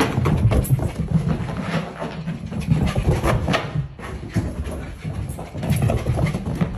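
A pet racing around with the morning zoomies: a busy, irregular run of scrambling knocks and animal noises.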